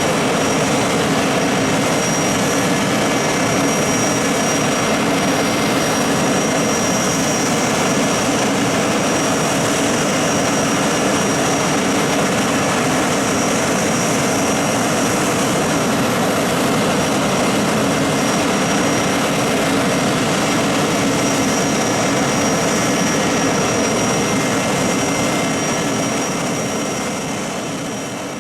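Garrett TFE731 turbofan jet engine running steadily, a dense rush with a thin high whine over it, fading out near the end.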